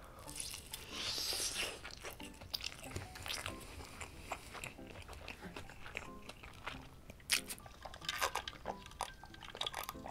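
Close-miked biting into crispy breaded fried chicken, a crunchy bite about a second in, followed by chewing with repeated crackles of the fried coating.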